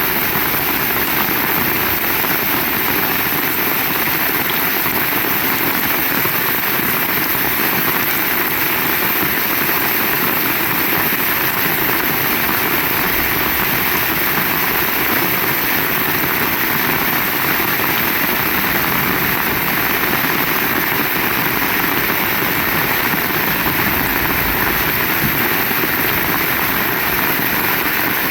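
Heavy rain falling steadily: a dense, even hiss of rain with no single drops or breaks standing out.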